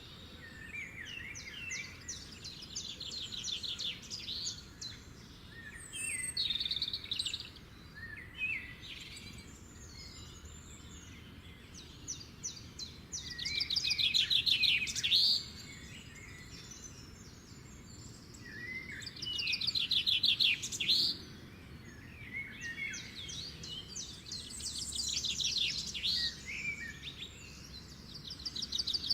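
Small songbirds chirping and singing rapid trills in repeated bursts every few seconds, loudest in two stretches around the middle, over faint steady background noise.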